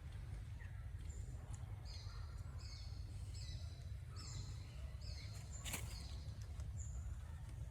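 A bird calling a run of short, high notes, about two a second, for several seconds, over a steady low rumble. A single sharp click comes near the end.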